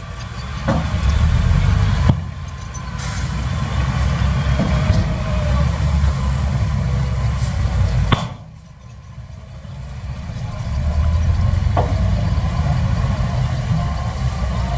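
Heavy diesel engines of earthmoving machinery running under load, easing off for a moment a little past halfway and then building again, with a couple of sharp knocks.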